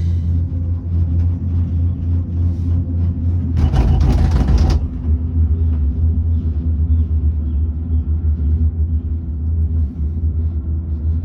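Steady low rumble of a moving Skyrail Rainforest Cableway gondola, heard from inside the cabin. About four seconds in there is a louder rattling, hissing burst that lasts about a second.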